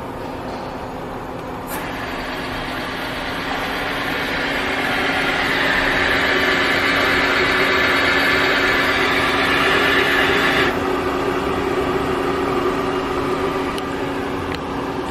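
Nexturn SA-20B Swiss-type CNC automatic lathe running a cycle with a steady machine hum. A higher, rushing machining noise starts with a click about two seconds in, grows louder, then cuts off suddenly about eleven seconds in.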